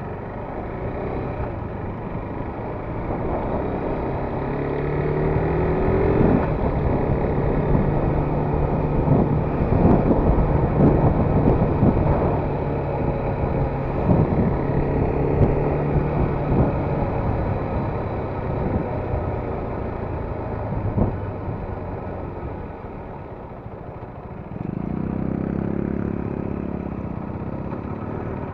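KTM RC 390's single-cylinder engine running while the bike is ridden, with a held, steady note through the middle stretch. There is a louder swell of engine sound a little before the end.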